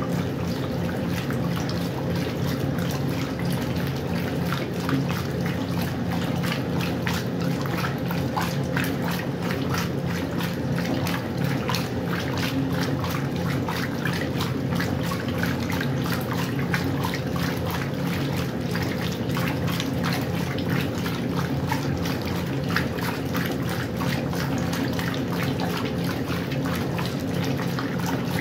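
Westinghouse washing machine running: water splashing and sloshing in the tub over a steady motor hum.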